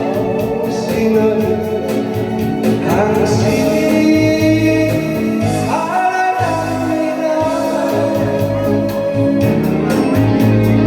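A voice singing a song over a backing track with a steady beat.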